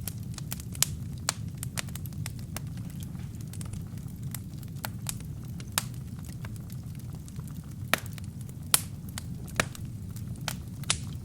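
Wood fire burning in a fireplace: a steady low rumble of flames with irregular sharp crackles and pops from burning wood and kindling, a few louder pops standing out.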